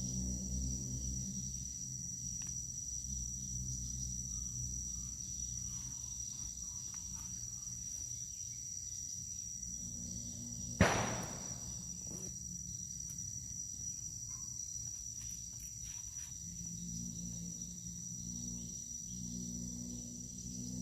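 Steady high-pitched insect buzzing over a low hum, with one sharp loud knock a little past halfway.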